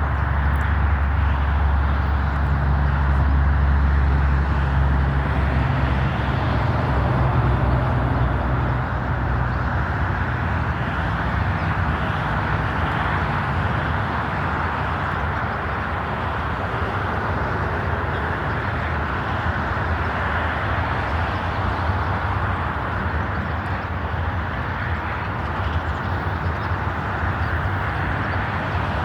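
A car's engine and road noise running steadily, a low hum whose pitch shifts slightly about five seconds in.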